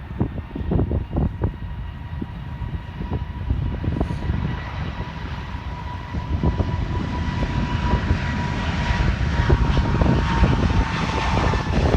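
Airbus A220-100's Pratt & Whitney geared turbofans running at takeoff power: a steady whine that drifts slightly lower over a rumble that grows louder in the second half. Heavy wind buffets the microphone throughout.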